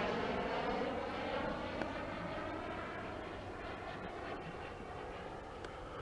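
Radio-controlled Eurofighter model jet flying, its engine noise fading as it moves away after a close pass, then running on steadily at a distance.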